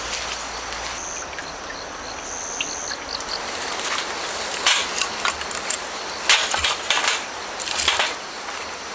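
Grass insects trilling as one steady high thin note, followed from about halfway through by irregular close crunching and rustling clicks, like something being handled or stepped on.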